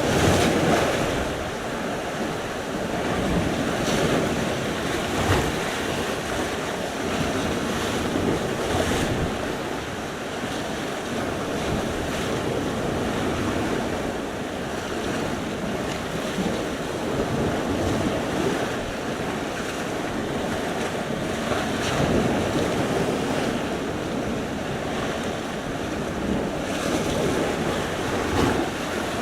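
Sea surf: waves breaking and washing in a continuous rush that swells and falls every few seconds, with wind buffeting the microphone.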